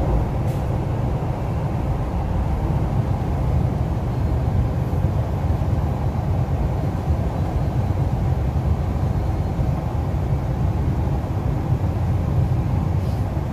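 Steady running noise inside a carriage of an MTR East Rail Line R-Train electric train moving at speed: an even, deep rumble of wheels on rail and running gear, heard through the car body.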